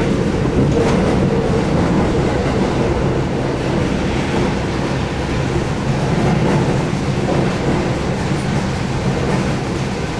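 Keihan 8000-series electric train running, heard from on board: steady wheel-and-rail noise with a low hum from its DC traction motors.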